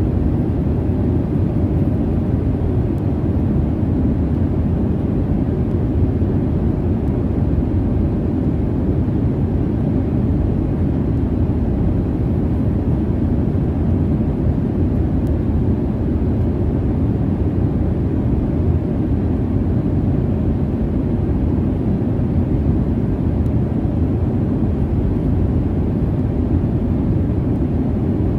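Steady low rumble of jet engines and airflow heard inside an airliner's cabin in flight, deep and even with no breaks.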